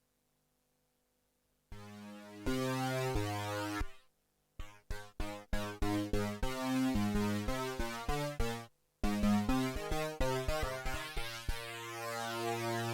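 TSynth, a Teensy 4.1-based 12-voice polyphonic synthesizer, playing one of its presets. After a silent opening second or two come held chords, a run of short detached notes, a brief break, then more chords.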